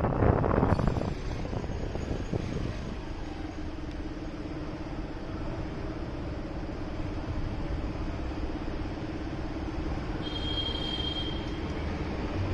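Motorcycle engine running steadily with road noise, heard from the bike itself, with a burst of wind on the microphone in the first second. A brief high-pitched tone sounds for about a second near the end.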